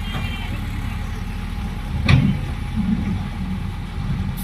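Diesel engine of heavy earthmoving equipment running steadily with a low rumble, with one sharp clank about two seconds in and a smaller knock soon after.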